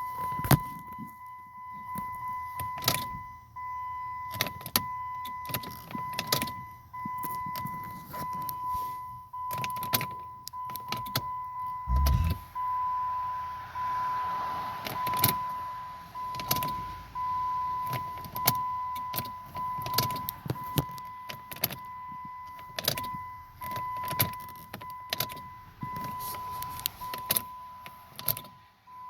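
A 2007 Jeep Grand Cherokee's dashboard sounds a steady high warning tone, with repeated sharp clicks over it and a short low thud about twelve seconds in. No engine running is heard, in keeping with the Jeep's no-start fault.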